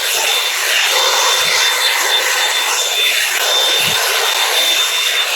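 Revlon One Step hot-air brush dryer running steadily: a constant rush of blown air with a steady high whine in it.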